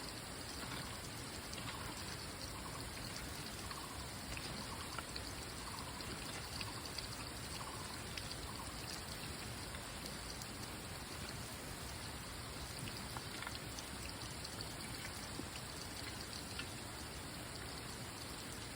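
Steady sound of water, rain-like patter with scattered small drips. Faint short calls repeat about once a second during the first half.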